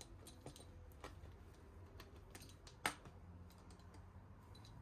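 Faint small clicks and ticks of a staple remover prying upholstery staples out of a chair, with one sharper click about three seconds in.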